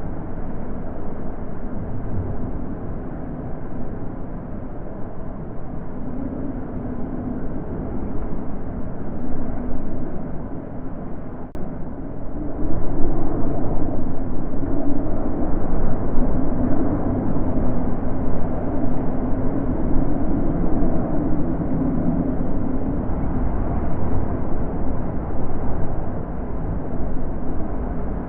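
Wind blowing: a low, rushing rumble that swells and eases, growing louder a little under halfway through and staying up.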